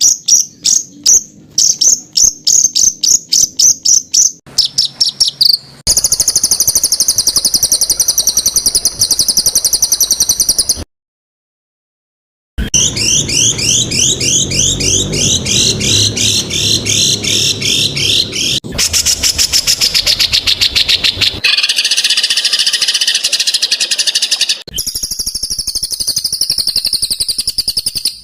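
Songbird song edited into a fast sequence of abruptly spliced segments: rapid strings of sharp repeated notes and long, dense, harsh trills, broken by a short silence partway through.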